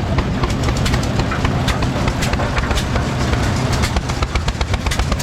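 Antique concrete mixer driven by a hit-and-miss engine, running with a steady low rumble and a dense, irregular rattle of clicks.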